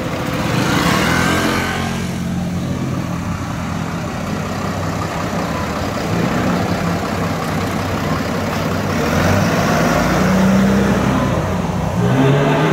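Ferrari F12berlinetta V12 with a Novitec N-Largo exhaust, running at low speed in slow traffic; its note swells about a second in and again around two-thirds of the way through.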